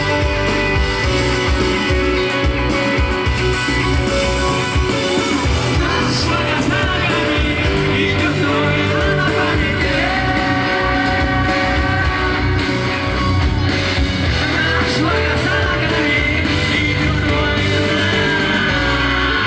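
Rock song playing: electric guitars and drums, with a voice singing.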